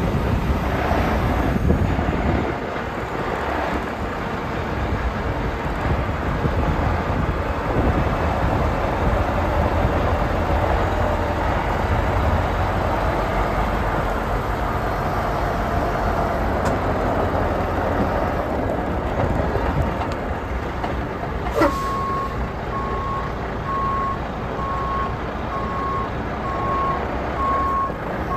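Semi truck running with a steady low engine rumble. About three-quarters of the way in, a short sharp sound is heard, then a reversing alarm starts beeping at a steady rhythm as the truck backs up.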